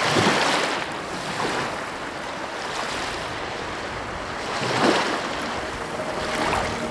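Sea waves washing onto a beach: a steady rush of surf that swells at the start and again about five seconds in. A faint steady hum comes in near the end.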